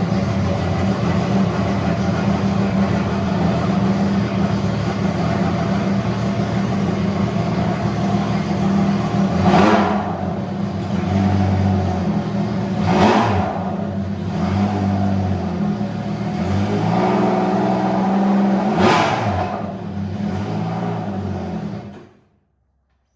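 Engine running through an exhaust with its restrictor removed, idling steadily with three quick throttle blips about ten, thirteen and nineteen seconds in. The sound cuts off suddenly near the end.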